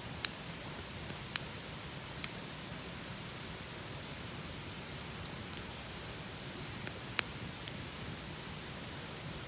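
Wood campfire burning with a steady hiss and a few sharp crackling pops at irregular moments, the loudest near the start and about seven seconds in.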